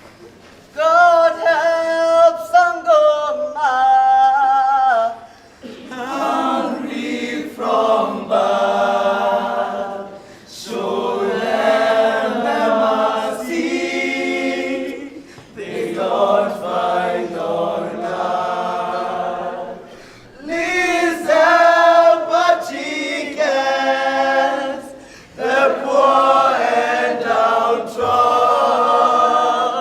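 A group of voices singing unaccompanied, in sung phrases of about five seconds each with short breaks between them.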